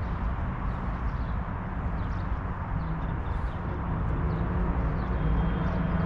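Steady low rumble of road traffic, with faint, evenly spaced footsteps on pavement.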